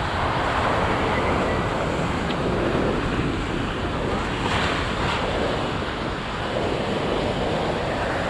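Ocean surf breaking on a beach, a continuous rush of noise that swells and eases, with wind buffeting the microphone.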